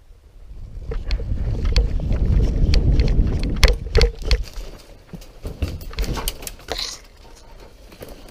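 Footsteps crunching and rustling through dry leaves and brush, with irregular sharp crackles like twigs snapping and a heavy low rumble on the microphone in the first half.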